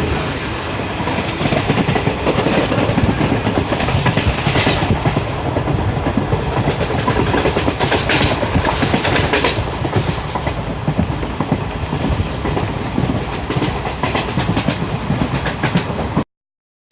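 Passenger train running, its wheels clattering rapidly over the rails with a steady rumble. The sound cuts off abruptly near the end.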